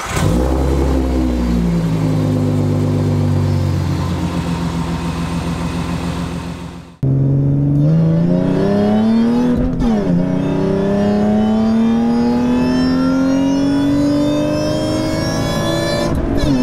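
Ford Mustang 3.7 V6 engine, just started, its revs falling and settling to a steady idle. After an abrupt cut about seven seconds in, the engine revs up with a steadily rising pitch, breaks off briefly near ten seconds in, then climbs again.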